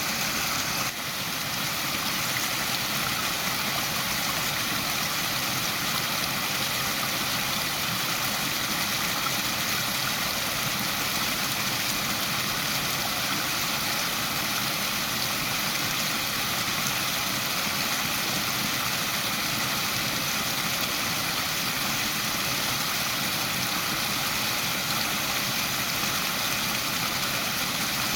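Waterfall: a steady, unbroken rush of falling water, with a brief dip in level about a second in.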